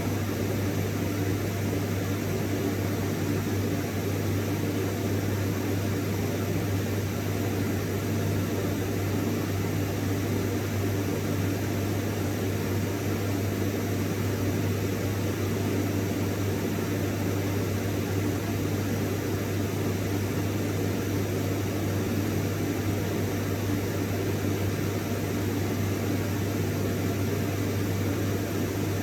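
Vacuum cleaner running steadily: a constant motor hum with a steady rush of air over it, unchanging throughout.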